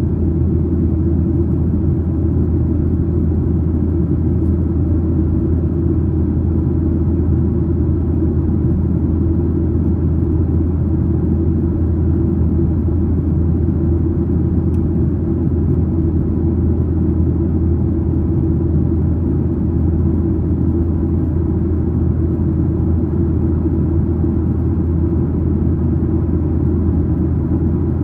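Steady low rumble inside the cabin of a Boeing 737-900ER: its CFM56-7B engines running and the airframe noise, heard from a seat aft of the wing, with no change in pitch or level.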